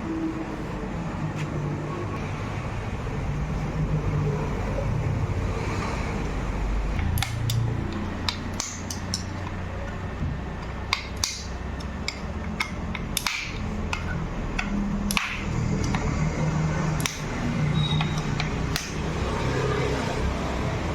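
Hand tools clinking and knocking on metal motorcycle parts while the bike is being dismantled, a series of sharp clicks, over a steady low rumble of road traffic.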